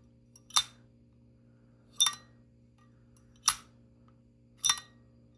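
A sterling silver Zippo lighter case is struck four times, about every second and a half. Each strike gives a sharp metallic ping with a brief high ring. This is the ping test, where the ring of the metal is listened to as a sign of real silver.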